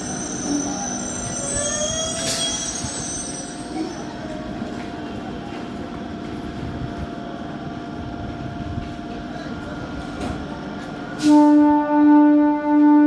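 Bandel–Howrah EMU local train rolling slowly past the platform, its steel wheels squealing on the rails. About eleven seconds in, a loud horn starts and sounds in short repeated pulses.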